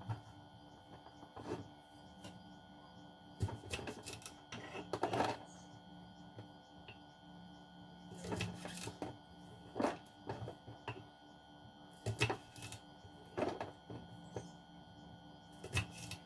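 Irregular clicks and knocks of kitchen containers and utensils being handled during food preparation, about one every second or two, some in quick clusters, over a faint steady hum.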